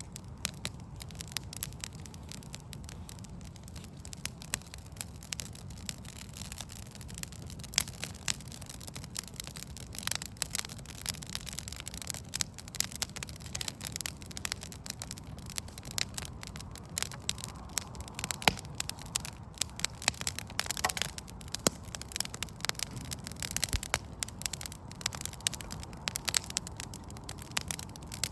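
Wood fire of burning logs crackling, with irregular sharp pops and snaps that come thicker in the second half, over a steady low background hum.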